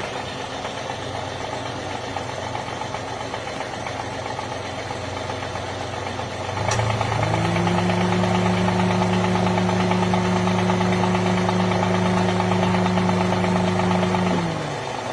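Toyota Avanza engine idling, then revved up about halfway through and held at a steady higher speed for several seconds before dropping back to idle, as the car is checked for engine mounting trouble. A single click sounds as the revs begin to rise.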